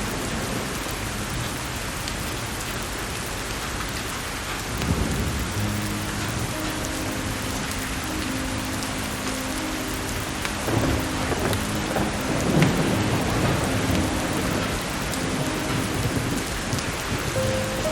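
Steady heavy rain with thunder rumbling, a low roll about five seconds in and a longer, stronger one from about eleven to thirteen seconds. Faint sustained low tones run underneath, with a few scattered sharp clicks.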